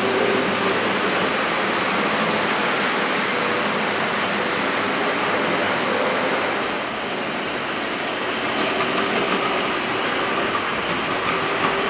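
Model train locomotives running on a layout track: a steady whirring rumble of small motors and wheels on rail, with a faint hum, easing slightly a little past halfway.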